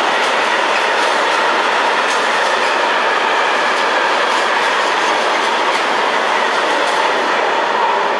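Freight train of covered wagons rolling past at speed: a steady rush and clatter of wheels on rail, with a steady ringing tone over it.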